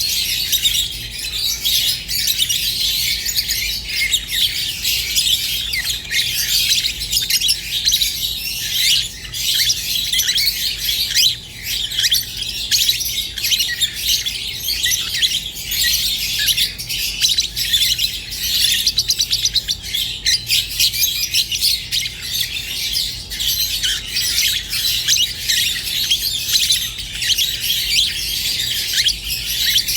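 A flock of Rosy-faced and Fischer's lovebirds chirping and twittering continuously in a dense, high-pitched chatter.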